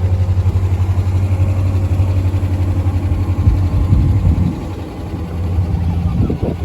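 A car engine idling with a steady low beat. It rises briefly about four seconds in, then drops away as if the car is pulling off.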